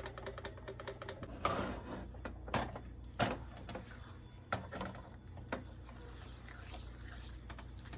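A utensil clicking and knocking against a bowl while puppy weaning mush is stirred with added water: a fast run of light clicks fading out in the first second, then a handful of separate sharper knocks, over a steady low hum.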